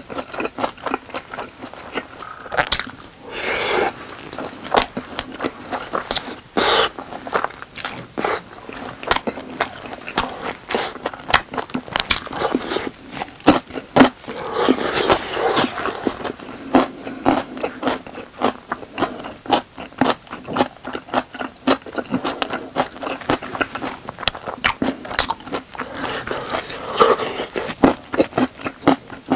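Close-miked eating sounds: a person chewing and biting into saucy boneless chicken with rice. Many quick wet mouth clicks run throughout, with occasional scrapes.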